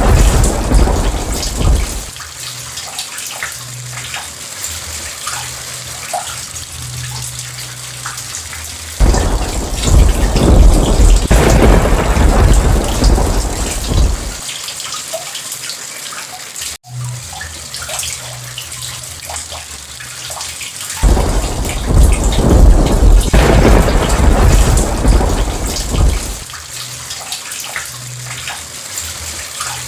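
Steady heavy rain with rolls of thunder. A rumble dies away in the first two seconds, another rolls from about 9 to 14 seconds in, and a third from about 21 to 26 seconds. Just past the middle there is a split-second gap in the sound.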